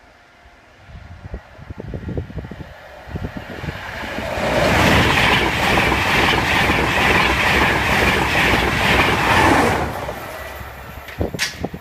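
Express passenger train passing over a level crossing: the rumble of its wheels on the rails builds from about a second in, stays loud for about six seconds and then dies away. A few sharp clicks come near the end.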